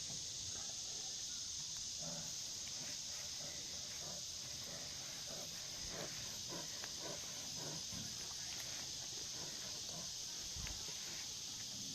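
Steady, high-pitched insect chorus, with faint scattered soft rustles and knocks beneath it.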